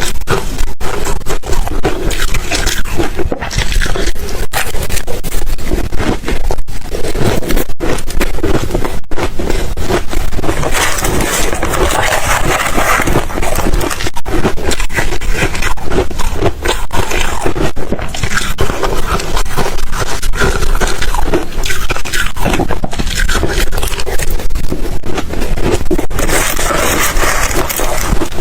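Ice being bitten and crunched by mouth, close to the microphone, as a loud, continuous crackling and grinding with many sharp little cracks.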